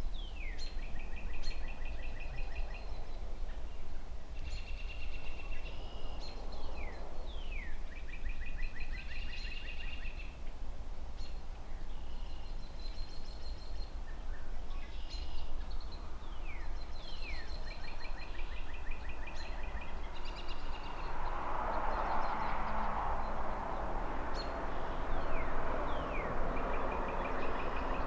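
A songbird singing the same short phrase about every four seconds, a few quick falling notes followed by a rapid trill, over a steady low rumble of distant city traffic. A vehicle passes, swelling and fading, about three quarters of the way through.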